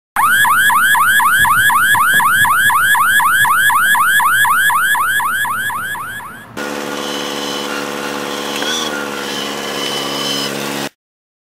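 Electronic alarm sounding a fast repeating whooping chirp, about three or four a second, that fades away after about six seconds. The sound then cuts to a steady droning hum of several held pitches, which stops abruptly near the end.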